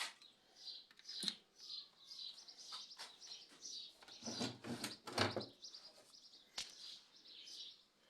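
Small birds chirping repeatedly in the background, mixed with a few knocks and clunks of handling, the loudest coming about four to five seconds in.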